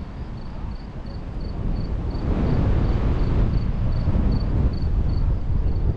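Strong wind buffeting the microphone, a low rumble that grows louder about two seconds in. A faint high chirp repeats about three times a second underneath.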